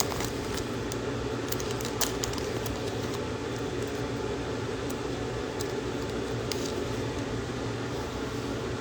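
Steady fan hum, with a few faint clicks scattered through it; the sharpest click comes about two seconds in.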